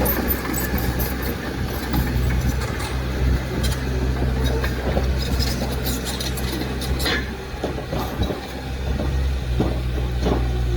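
Diesel engine of heavy earthmoving machinery running steadily, with scattered metallic knocks and clanks over the low engine hum.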